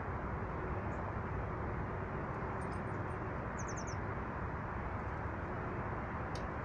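A few faint, high small-bird chirps over a steady rushing background noise, with a quick run of four short high notes about three and a half seconds in.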